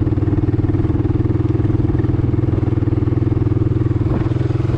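Small vehicle's engine running at a steady speed while being ridden: a steady drone with a fast, even pulse.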